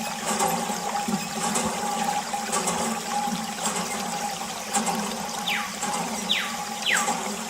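Water running and splashing from a mini water pump, over a steady high hum. Three short falling whistles sound in the second half.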